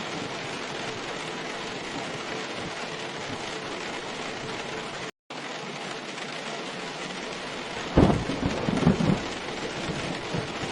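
Steady heavy rain falling, which cuts out completely for a moment about halfway through. About eight seconds in, a sudden loud clap of thunder rumbles for a second and a half.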